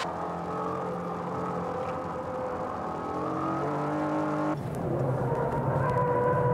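Honda NSX's mid-mounted V6 heard from inside the cabin under racing load, holding a fairly steady note with a small change in pitch about three seconds in. It then switches abruptly to the in-cabin engine note of a Mitsubishi Lancer Evolution V GSR's turbocharged four-cylinder at speed.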